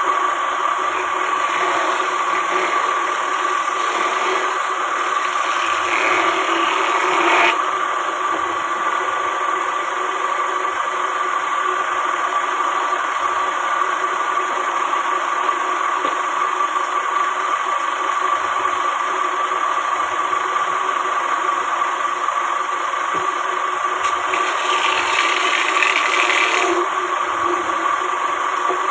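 A woodworking power tool running steadily with a constant hum. It grows louder and harsher twice, at about six seconds and again near the end, each time stopping abruptly.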